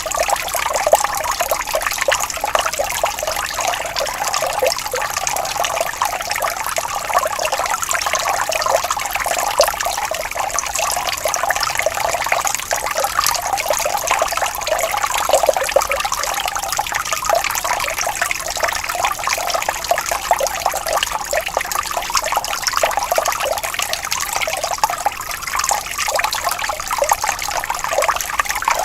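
Water flowing gently and steadily, a continuous trickling and babbling with no breaks.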